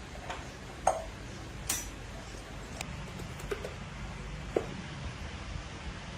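Hand tools and metal parts being handled, giving about five scattered light knocks and clinks over a low steady background noise.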